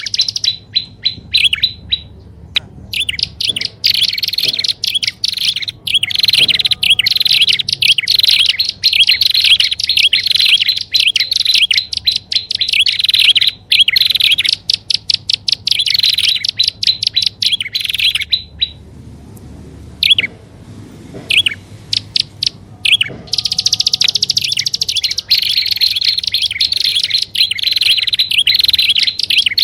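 Prinias (prenjak) calling: long runs of rapid, high, repeated chirps, broken by a pause of a few seconds past the middle.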